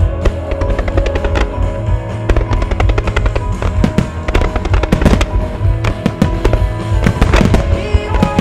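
Starmine fireworks firing in rapid succession: dense volleys of loud shell bursts and bangs that begin suddenly and run on in quick, overlapping strings, over the music accompanying the show.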